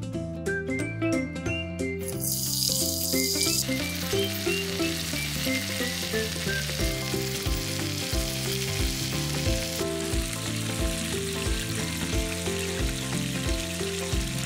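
Garlic and chilli, then silkworm pupae, frying in hot oil in a miniature cast-iron pan, stirred with chopsticks: a sizzle that starts about two seconds in, loudest just at first, then steady. Background music with a gentle stepping melody plays throughout.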